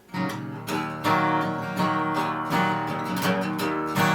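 Instrumental opening of a recorded folk song: acoustic guitar strummed in a steady rhythm, starting right away.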